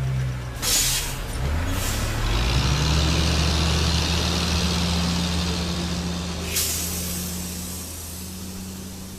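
Semi-trailer truck's diesel engine running and pulling away, its pitch rising about two seconds in, with short air-brake hisses near the start and a longer hiss from about six and a half seconds in, then fading out near the end.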